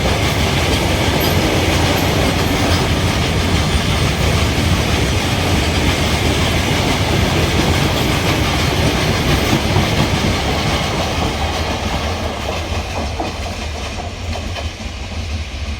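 Goods train of BOXN open wagons rolling past, wheels clacking over the rail joints in a steady rumble that slowly fades over the last few seconds.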